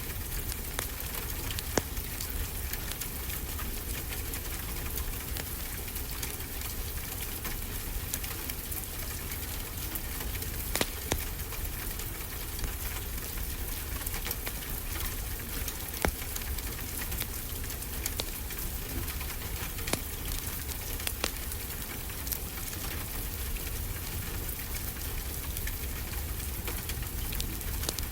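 Steady rain falling, with a wood fire crackling over it: sharp pops every few seconds, a pair of them close together about eleven seconds in.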